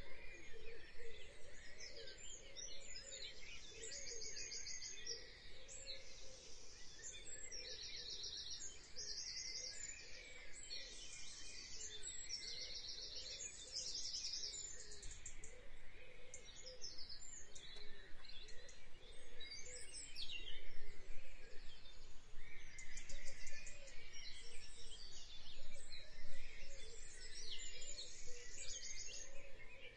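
Birds chirping, with repeated rapid high trills, over a low steady background noise.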